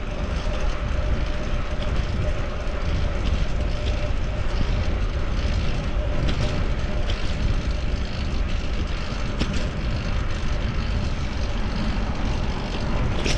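Steady rumble of wind and road noise on the camera microphone of a moving bicycle, with passing city traffic. A faint steady tone sounds through the first half, and a few light clicks are scattered through.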